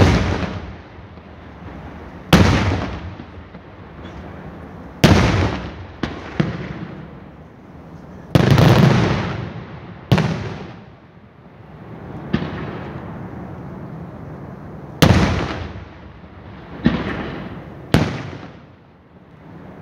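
Aerial firework shells bursting overhead in a daytime display: about ten loud bangs, each followed by an echo that dies away over a second or two. One near the middle rumbles on longer than the rest.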